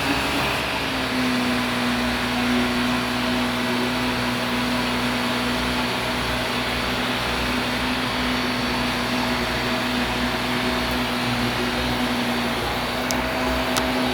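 Vacuum cleaner running steadily: a constant motor hum over a rush of air.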